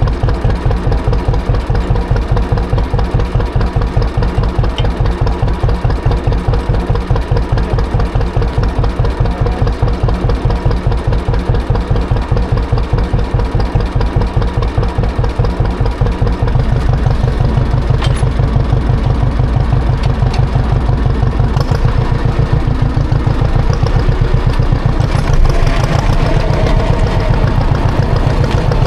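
John Deere tractor engine running with an even, pulsing beat; about sixteen seconds in it grows louder and the beat quickens, as the engine speeds up or takes on load.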